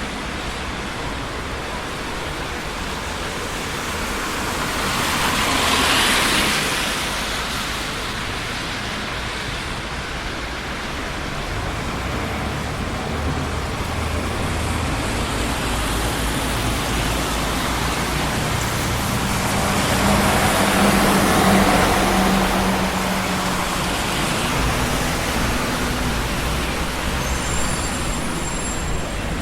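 Steady traffic noise of a busy city street, with cars passing by. Two vehicles swell past louder, one about six seconds in and a heavier one with a low engine hum around twenty seconds in.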